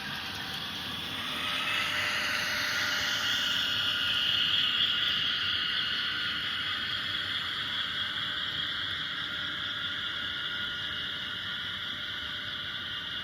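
Sound-equipped N scale model diesel locomotive playing its dynamic brake sound: a high, steady whine ("screaming") through its tiny speaker as the train descends a grade. The whine swells about a second and a half in, then eases slightly and holds steady.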